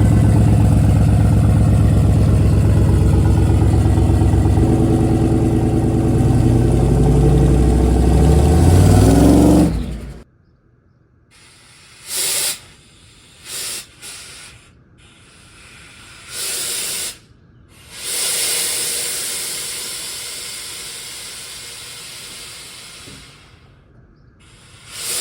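A vehicle engine running steadily, changing speed about halfway through its run, then shutting off suddenly. After that come several short bursts of hissing and a longer hiss that slowly fades.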